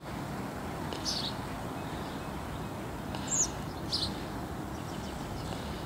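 Outdoor ambience: a steady low background rumble with three short, high bird chirps, each dropping in pitch, about a second in, a little past three seconds and at four seconds.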